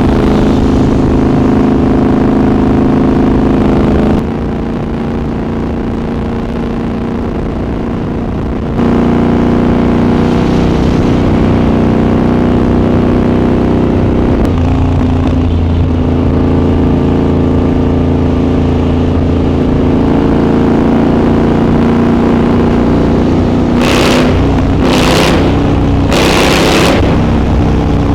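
Triumph Scrambler 1200 XE's parallel-twin engine running while the bike is ridden, recorded onboard, with its pitch shifting as the throttle changes. It drops in level about four seconds in and picks up again about nine seconds in. Three short hissing bursts come near the end.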